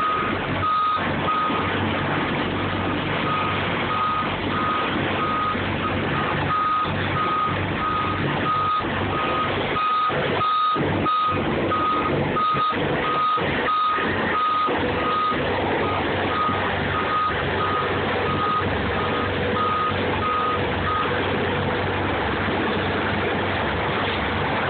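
Truck's reversing alarm beeping steadily, about one and a half beeps a second, over the truck's engine running as it backs up. The beeping stops near the end.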